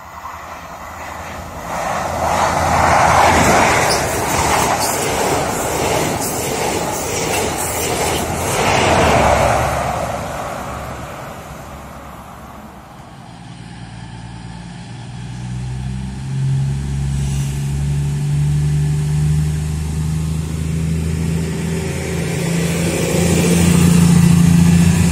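A train passes through the station with a rushing rail-and-wheel noise that swells and fades over the first ten seconds. Then an East Midlands Railway Class 222 Meridian diesel unit approaches, the hum of its underfloor diesel engines growing louder as it runs in alongside the platform near the end.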